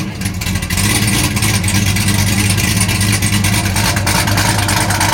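Modified 2014 Chevy Camaro SS 6.2-litre V8, around 600 horsepower, idling steadily through its Corsa exhaust.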